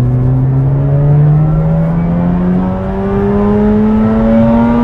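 Mazda RX-8's 1.3-litre twin-rotor Wankel rotary engine pulling hard from about 3,000 rpm, its pitch rising slowly and smoothly as the revs climb, heard from inside the cabin. The car runs a non-original aftermarket exhaust.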